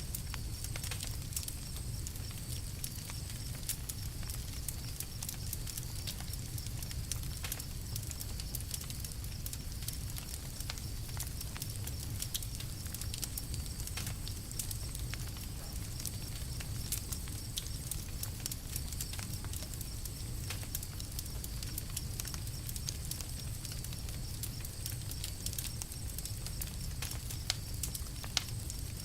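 Campfire crackling, with frequent irregular sharp pops and snaps over a steady low rumble of the burning fire.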